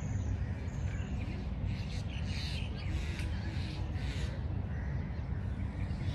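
A bird giving a few crow-like caws over a steady low rumble.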